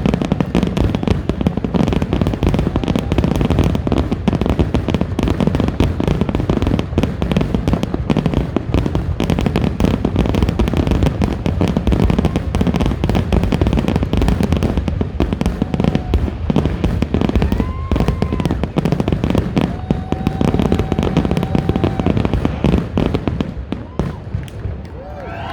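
Fireworks barrage: a dense, continuous run of booms and crackling bursts that thins out and fades just before the end.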